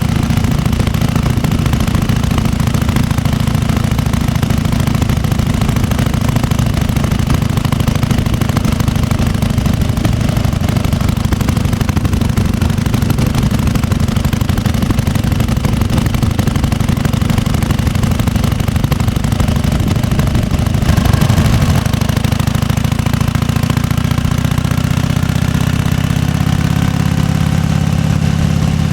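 1998 Harley-Davidson Fat Boy's 1340 cc Evolution V-twin engine running steadily with its uneven potato-potato beat. About two-thirds of the way through it briefly gets louder, then its pitch slowly climbs.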